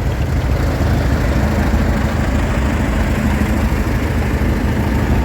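Tractor engine idling steadily, with a low, even drone and a steady hum that joins about a second in.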